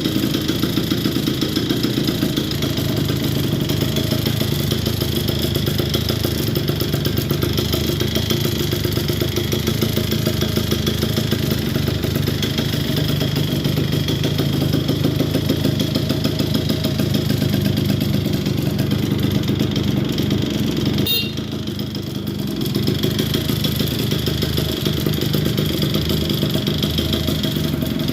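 Yamaha Chappy moped's two-stroke engine, fitted with a Polini 65cc cylinder kit, idling steadily on its first start after a full restoration. The sound dips briefly about three quarters of the way through, then picks up again.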